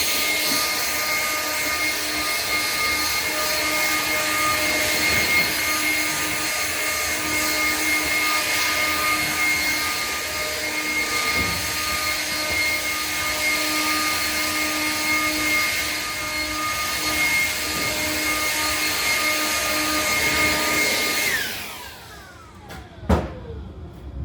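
Electric vacuum cleaner motor running at a steady high whine, then switched off and spinning down with a falling whine about 21 seconds in; a single sharp knock follows near the end.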